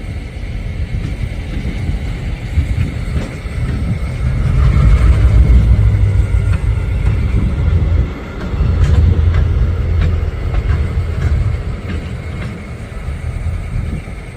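Diesel switching locomotive working close by, its low engine rumble swelling twice, with a few sharp metallic clanks.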